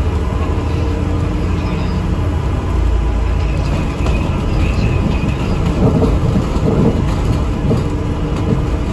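ADL Enviro400 MMC double-decker bus under way, heard from inside: a steady low engine and road rumble, a little louder around six to seven seconds in.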